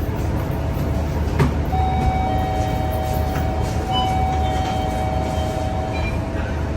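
Scania K230UB bus running along, a steady low drone of engine and road rumble. A single click comes about one and a half seconds in, and a steady whine rises over the drone from about two seconds in until about six seconds in.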